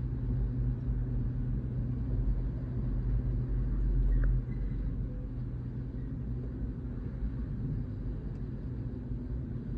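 Steady low mechanical rumble with a constant low hum. It swells about four seconds in, then drops off sharply and carries on at a lower level.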